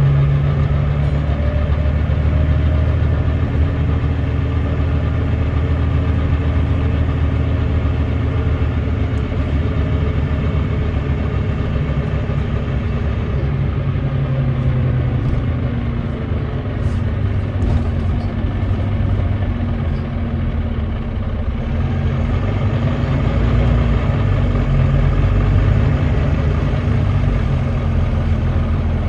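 Volvo D9B 9.3-litre diesel engine of a Volvo B9TL double-decker bus running under load, a steady heavy thrash with the engine note slowly rising and falling, from an engine described as misfiring.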